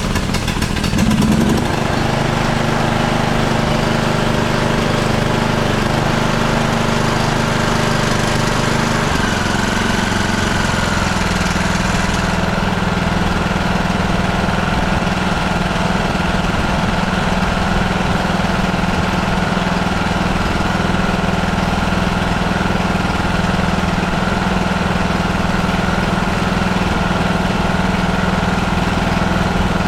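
Small single-cylinder-class lawn tractor engine, transplanted from a Craftsman mower, running steadily just after starting up. Its note shifts about nine seconds in, and the higher hiss drops away a few seconds later as it settles into a steady run.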